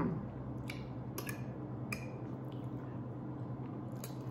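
Soft, wet mouth sounds of someone chewing food, with a few faint clicks, over a steady low hum.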